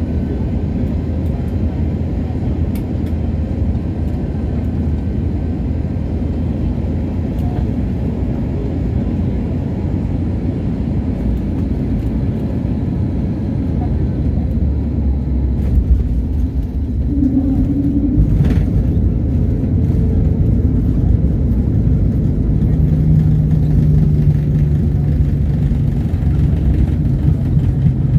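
Airliner cabin noise on the approach to landing: a steady low rumble of the engines and rushing air. It grows louder about two-thirds of the way through, with a brief sharp sound just after.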